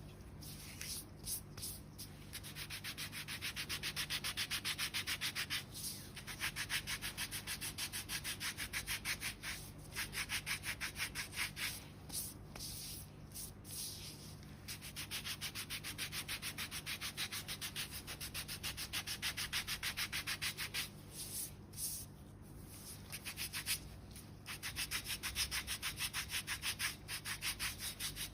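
A foot file rasping back and forth over the hard, dead skin of a sole in quick, even strokes, several a second, coming in runs with short pauses between them.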